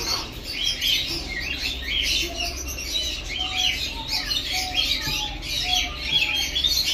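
A crowd of small cage birds chirping and squawking continuously over one another, with a short lower call note repeating about twice a second through the middle.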